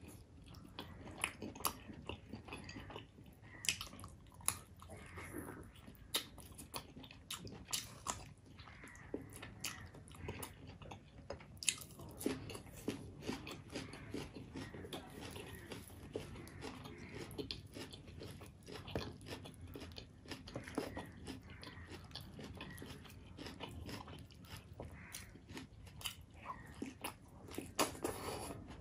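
A person chewing and biting mouthfuls of curry and paratha eaten by hand. There are many short, sharp mouth clicks at an irregular pace.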